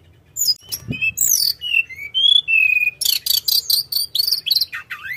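A tledekan gunung songbird singing a fast, high-pitched run of whistled notes, falling sweeps and trills, with the song growing denser and continuous in the second half. A single low thump sounds just under a second in.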